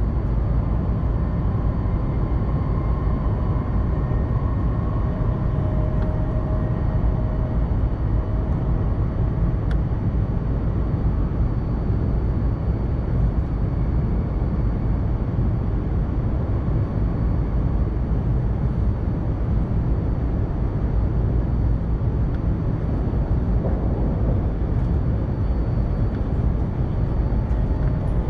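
Steady low rumble of a Tohoku Shinkansen train running at speed, heard from inside the passenger car, with a faint whine in the first few seconds.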